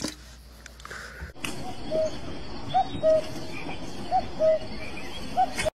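A bird gives short calls, about six of them, some in quick pairs, over a steady outdoor hiss. The calls start about a second and a half in, after a quieter stretch with a low hum.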